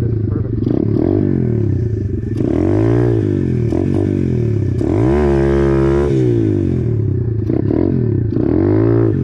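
Apollo RFZ 125cc pit bike's single-cylinder four-stroke engine revving up and down again and again while being ridden hard in second gear for wheelie attempts, the longest rev held high for about a second around five seconds in.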